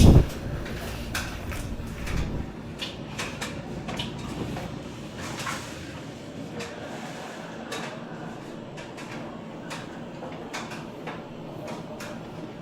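Miele washing machine: a heavy thump at the start and a low rumble for about two seconds, then scattered light clicks and knocks.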